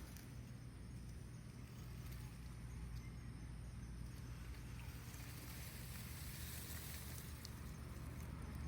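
Faint steady low rumble with soft outdoor background noise and a few light ticks.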